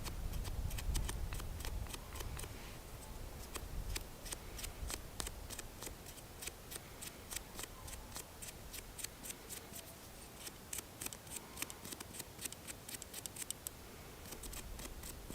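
Irregular run of sharp little clicks and snips, several a second, from hands working fire-lighting tinder, with a low rumble of handling in the first few seconds.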